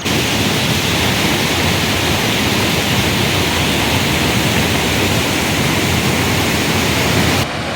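Steady rush of a waterfall's falling water, starting and stopping abruptly, cutting out near the end.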